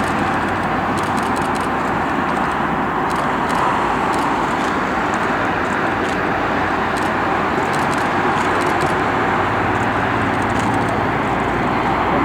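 A steady, even engine roar that holds the same level throughout, with no breaks or changes.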